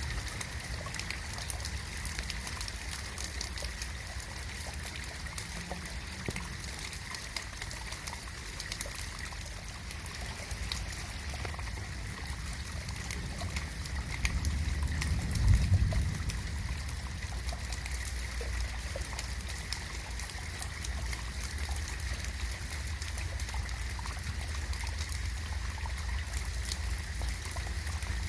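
Steady rain falling in a garden, a constant rush dotted with the fine patter of individual drops. About halfway through, a low rumble swells and fades.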